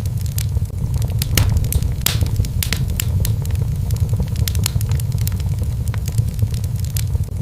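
Fire in a fireplace crackling: many irregular sharp pops and snaps over a steady low rumble of the flames.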